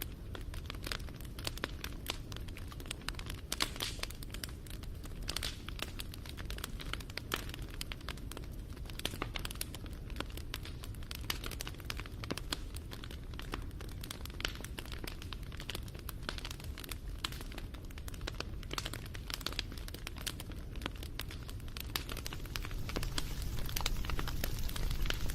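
Wood fire crackling, with dense, irregular pops and snaps over a low steady rumble; it grows louder a few seconds before the end.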